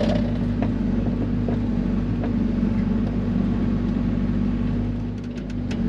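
Mini excavator's diesel engine running at a steady idle, a constant low drone.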